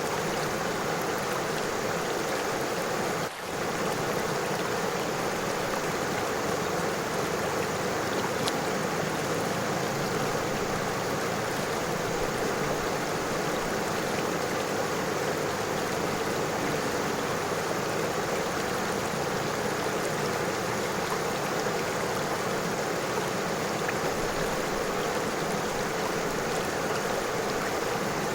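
River water flowing and rushing over stones in a steady, even wash, with a brief dip in level about three seconds in.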